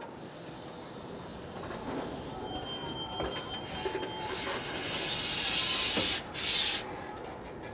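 Compressed air venting loudly from a railway air brake system on a slowly moving train: a long hiss of about two seconds, then a short second blast. A faint thin squeal comes before it.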